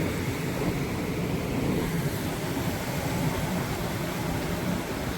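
Steady low rushing noise of beach ambience, the sea and wind, with no distinct events.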